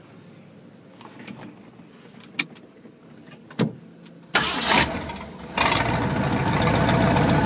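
A few faint clicks, then the hot rod's engine is cranked and fires about four and a half seconds in without the choke, settling into a steady idle.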